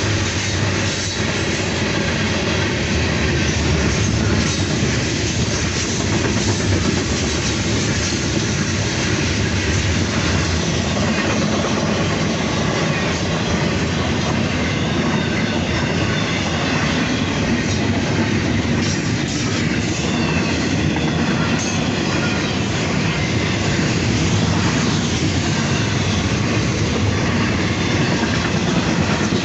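Freight train cars rolling past at close range: a steady rumble of steel wheels on rail with clickety-clack at the rail joints and a faint squeal of wheels.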